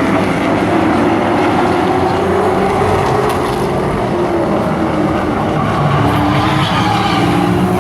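A field of short-track race trucks running at speed in a heat race. Several engine notes rise and fall over one another in a steady, loud drone.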